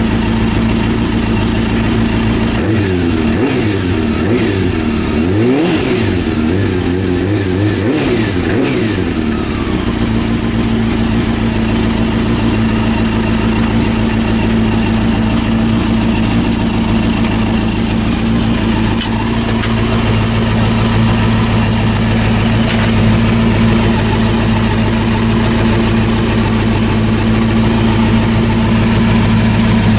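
Freshly rebuilt Honda CB400 four-cylinder engine running. It is revved up and down several times in the first third, then settles back to a steady idle.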